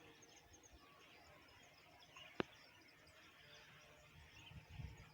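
Near silence with faint bird chirps in the background. A single sharp click about two and a half seconds in, and a few low thumps near the end.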